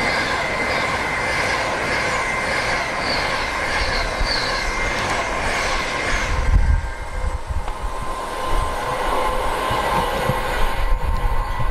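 A train passing close by: loud, steady running noise with high steady tones, easing off about six and a half seconds in. Low rumbling and a few sharp clicks follow near the end.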